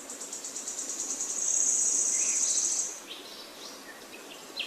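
A rapid, high, pulsing insect trill, like a cricket's, that stops about three seconds in, with a few short bird chirps scattered through.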